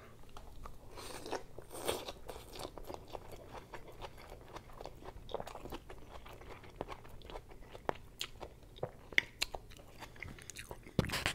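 Close-miked eating: noodles slurped in with chopsticks and chewed, with many small wet clicks and smacks from the mouth.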